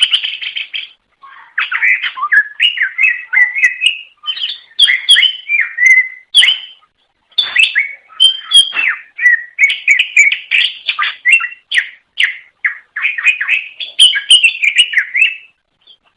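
Cucak ijo (green leafbird) singing a rapid, varied run of chirps, whistles and warbling phrases with a few brief pauses. The song stops shortly before the end.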